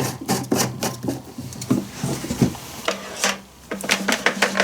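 Hands handling small plastic and metal parts of a chainsaw: a run of clicks, knocks and rubbing, with quick rapid clicking near the end.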